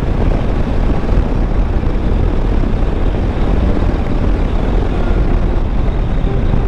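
Wind buffeting the microphone of a moving motorcycle over the steady running of a Bajaj Dominar 400 single-cylinder engine: a dense, steady low rumble.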